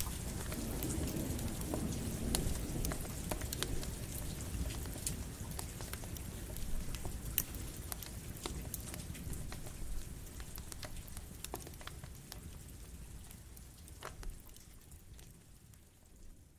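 Steady rain mixed with a crackling campfire, with scattered sharp pops over the hiss of the rain. It all fades out over the last several seconds.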